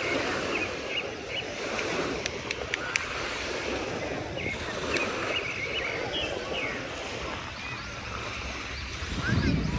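Seashore ambience: a steady wash of waves, with many short high-pitched cries scattered over it and a gust of wind on the microphone near the end.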